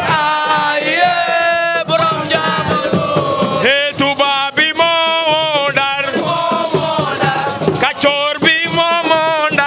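Music with men singing a chant, the long sung lines wavering and gliding in pitch.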